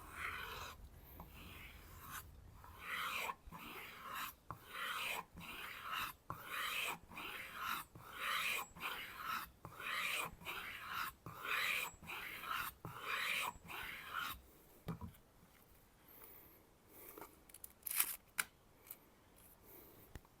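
Chef's knife blade drawn in quick alternating strokes across a raw kangaroo tail leather strop, about two dry rubbing strokes a second, stopping about 14 seconds in; a few faint handling clicks follow. The strop's ridges are stripping the wire edge, the root of the burr, left after sharpening.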